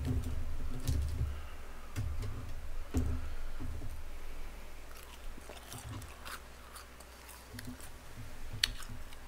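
A man chewing mouthfuls of boneless fried chicken close to a microphone. The chewing is heaviest in the first few seconds, then softer, with a few sharp wet mouth clicks.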